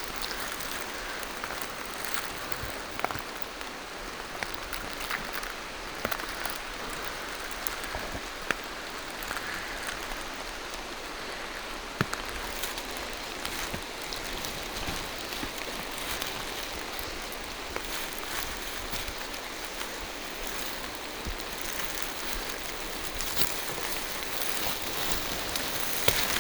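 Steady rain falling through forest trees, a continuous hiss with scattered sharp drips and drops striking leaves and surfaces close by.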